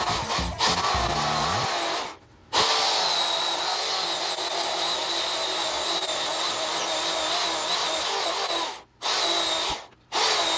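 Corded Black & Decker electric chainsaw running and cutting into a tree log, its motor and chain giving a steady high whine. It stops briefly about two seconds in, runs on steadily for about six seconds, then gives two short spurts near the end as the trigger is released and squeezed again.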